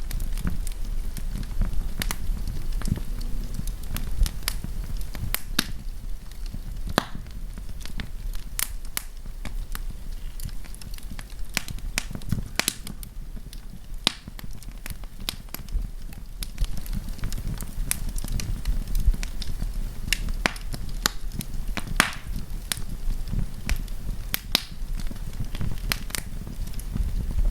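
Wood campfire crackling: irregular sharp pops and snaps over a steady low rumble of burning flames.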